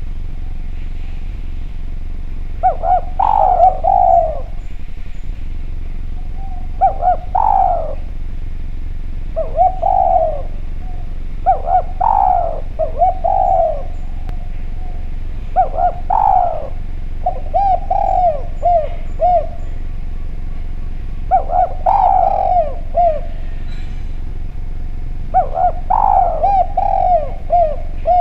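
Spotted dove (derkuku) cooing: seven phrases of several quick coos each, repeated every three to four seconds over a steady low hum.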